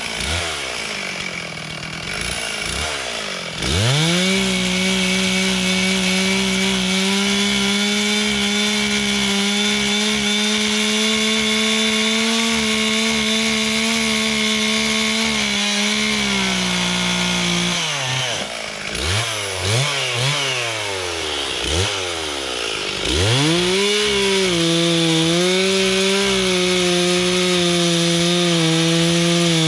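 Stihl chainsaw cutting up a downed tree. It runs at full throttle for about twelve seconds, drops back with a few short blips of the throttle, then runs flat out again.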